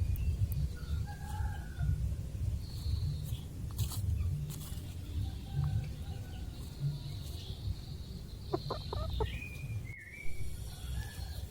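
Chickens clucking and calling, with scattered short high calls and one longer call that falls in pitch near the end, over a steady low rumble. A quick run of clicks comes near the end.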